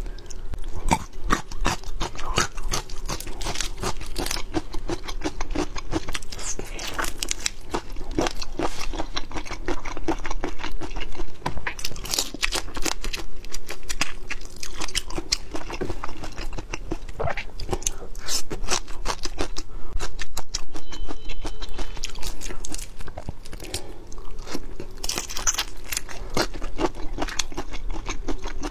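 Close-miked chewing of whole soy-marinated raw shrimp: dense, wet crunching and crackling of shell and flesh with many quick clicks, continuing without pause.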